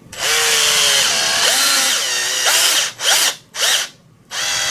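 Power drill driving the neck screws through a bass neck plate into the neck, with a run of about three seconds whose pitch sags and wavers as the screw bites, then two short bursts, then another run starting near the end.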